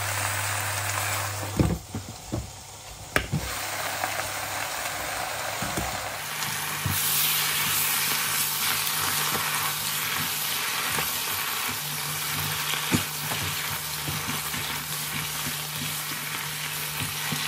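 Spinach sizzling as it is stir-fried in a non-stick frying pan, with a spatula stirring and knocking against the pan: a few sharp knocks in the first few seconds, and the sizzle grows louder about six seconds in. A low steady hum runs underneath.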